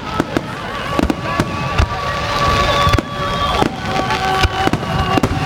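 Fireworks finale: a rapid barrage of aerial shells bursting, sharp bangs coming several a second. Long steady high tones run underneath the bangs.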